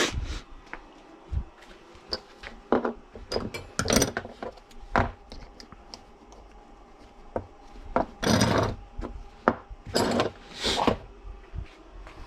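Irregular knocks, clicks and scraping of hand tools and parts being handled at a workbench, with a few longer rubbing or scraping strokes after the middle.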